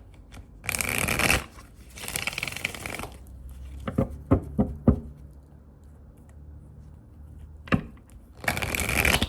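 A deck of tarot cards being shuffled by hand: three short riffling bursts, the first about a second in, the second a second later and the third near the end, with a few sharp taps in between.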